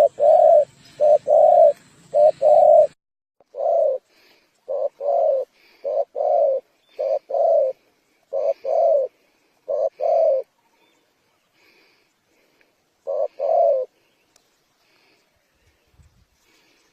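Spotted dove cooing: a long run of low, mellow coos, mostly in pairs, stopping about 14 s in.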